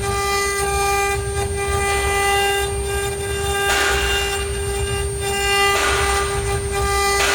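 ART1325 CNC router running, its spindle giving a steady high whine with several higher tones above it. A few brief surges of rushing noise come and go, about four and six seconds in and again at the end.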